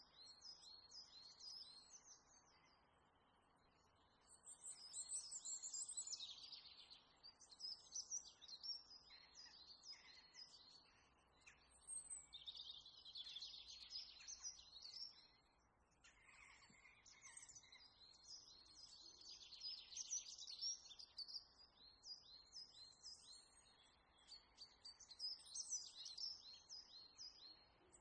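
Faint birds chirping, in bursts of rapid high chirps that come and go every few seconds, several calls overlapping.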